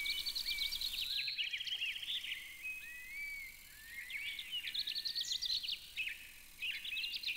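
Small birds chirping and twittering in a busy chorus of quick high chirps, with a few longer whistled notes. The chorus thins out briefly twice, about three and a half seconds in and again past six seconds.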